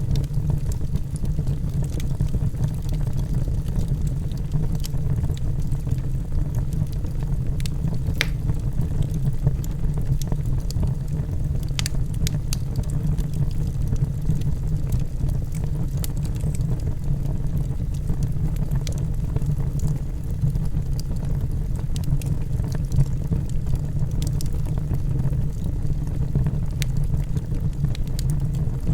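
Logs burning in a fireplace: a steady low rush of flame with occasional sharp crackles and pops.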